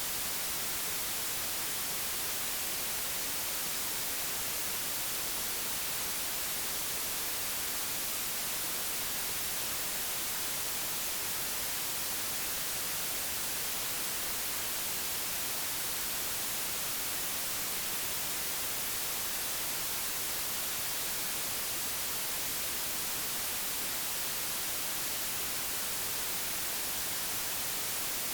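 Steady, unchanging white noise: a digitally generated, even hiss with more energy in the high frequencies, made for masking background chatter.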